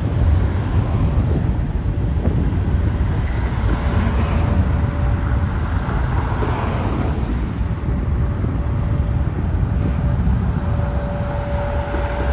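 Steady low rumble with wind buffeting the microphone, and a faint thin steady whine that fades in and out.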